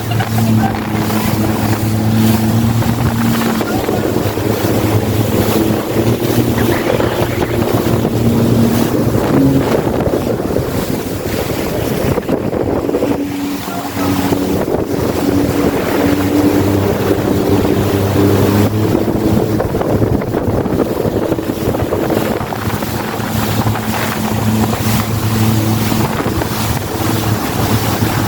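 Jet ski engine running steadily at speed, with wind buffeting the microphone and water rushing past. The engine note dips briefly and changes pitch about halfway through.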